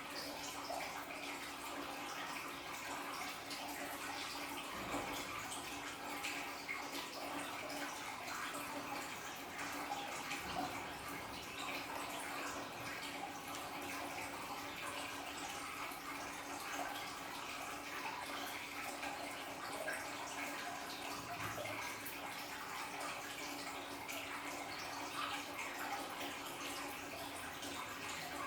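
Aquarium waterfall: water pouring and splashing steadily into the tank, with a faint steady hum underneath.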